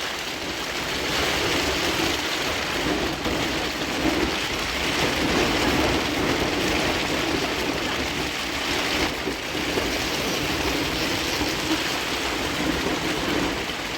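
Heavy rain falling steadily in a storm, with the wind swelling a little now and then.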